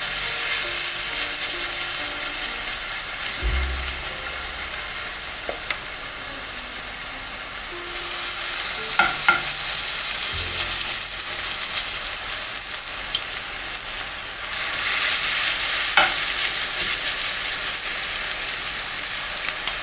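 Spoonfuls of zucchini and chicken fritter batter sizzling in hot oil in a frying pan, the sizzle growing louder about eight seconds in as more batter goes in. A few light clicks sound along the way.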